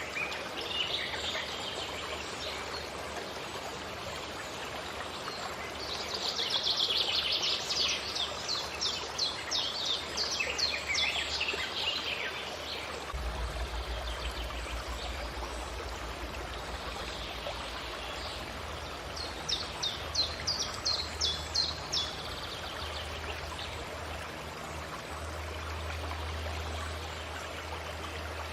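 Forest ambience: a steady rush of running water with birdsong. A bird sings a rapid run of high repeated notes for several seconds starting about six seconds in, and a shorter run comes around twenty seconds in.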